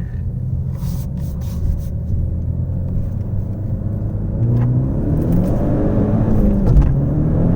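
Turbocharged 2.0-litre four-cylinder engine of a Ford Focus ST with a larger 2867 turbo, heard from inside the cabin. It runs low and steady at first, then accelerates hard at full throttle from about halfway, its pitch climbing fast. Near the end the pitch drops briefly at a gear change and starts climbing again.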